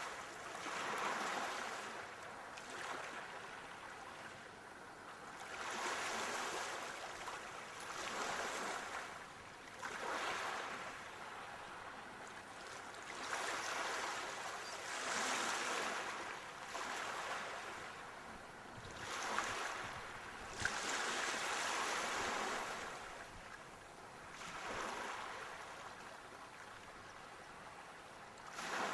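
Sea waves breaking and washing on a shore, swelling and fading every few seconds as a steady rolling surf.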